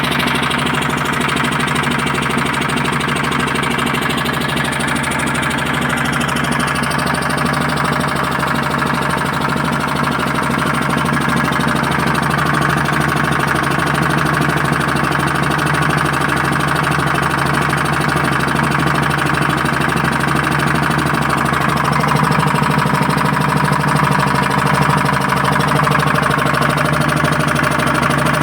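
Air-cooled generator engine running steadily at a constant speed, a little louder in the second half. Its cooling fan is not working, which is making the engine heat up.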